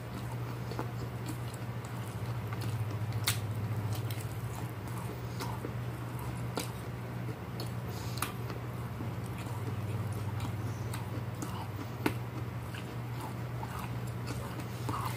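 Close-up chewing of stewed beef shank, with scattered short wet mouth clicks. A steady low hum from an electric fan runs underneath.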